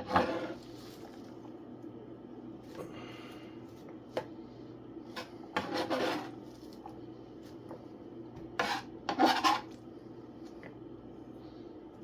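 Kitchen prep sounds while vegetables are cut up: a few separate scrapes and knocks of a knife and dishes, with short clicks between them, over a steady low hum.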